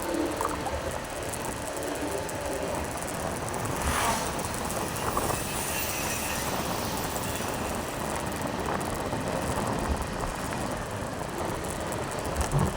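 Motorcycle on the move: a steady rush of engine, tyre and wind noise, with a brief louder swell about four seconds in.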